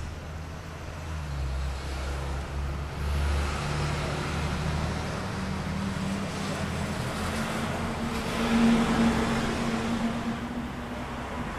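Fire engine's diesel engine running under way, its pitch climbing as it accelerates over several seconds. It is loudest about three quarters of the way through, then eases off.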